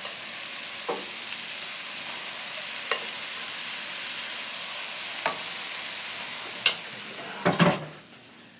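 Fried rice with vegetables sizzling in a hot pot as it is stirred, with a few light clicks of a slotted spoon against the pot. Two louder knocks come near the end, and then the sizzling grows faint.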